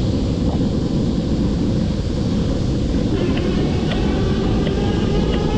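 Steady wind rumble on an action camera's microphone, with tyre noise, from an e-bike riding at about 15 mph. A faint whine joins about three seconds in.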